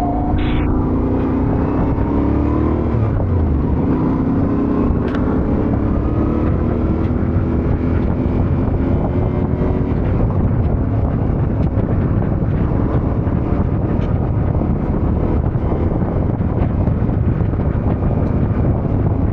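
Yamaha Ténéré 700's parallel-twin engine accelerating, its pitch rising with a gear change about three seconds in, under heavy wind noise on the microphone. After about ten seconds the wind noise covers most of the engine.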